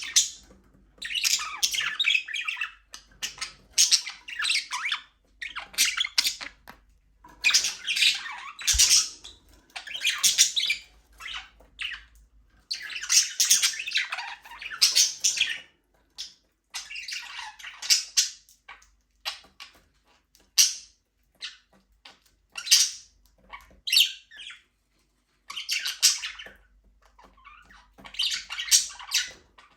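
Budgerigars chattering and chirping in a flock: rapid, scratchy warbling phrases of a second or two, one after another with short gaps.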